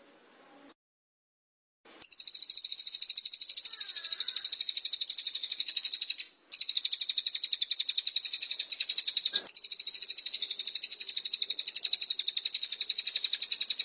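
A songbird giving a long, very fast trill of evenly repeated high chirps, starting about two seconds in after a short silence, with one brief break partway through.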